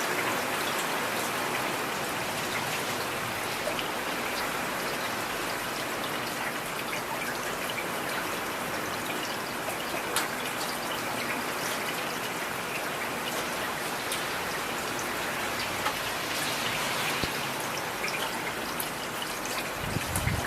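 Heavy rain falling steadily, with scattered individual drops ticking, a few louder than the rest.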